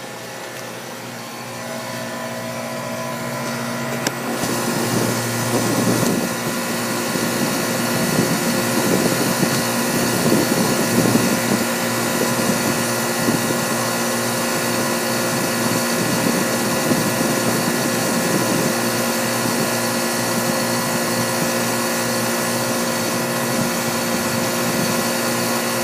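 Outdoor central air conditioner condenser units running: a steady compressor hum with the fan's whooshing, growing louder over the first several seconds and then holding steady.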